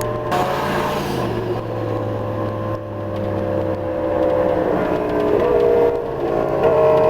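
Turbocharged pickup truck engine running hard under acceleration, heard from inside the cab. Its pitch climbs slowly, with a couple of changes near the end.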